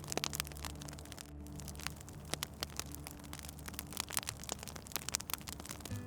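Wood fire crackling, with quick irregular pops and snaps over a soft hiss, and a low steady hum underneath.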